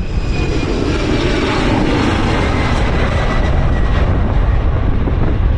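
J-AIR Embraer E190's twin General Electric CF34 turbofans running at takeoff power, a steady jet noise with a high whine that slowly falls in pitch. Strong wind buffets the microphone with a low rumble.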